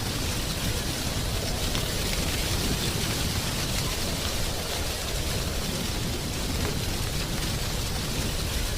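Steady, unbroken rushing hiss of outdoor nature ambience, with a low rumble underneath.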